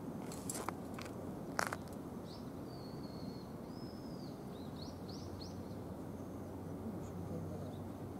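Open-air background noise with a bird chirping a series of short high calls through the middle. A few sharp clicks come in the first two seconds.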